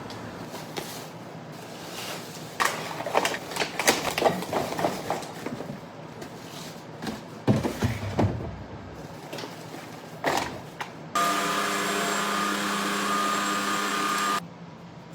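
Several seconds of clattering knocks and bumps, then a small electric motor appliance switches on, runs steadily with an even hum for about three seconds, and cuts off suddenly.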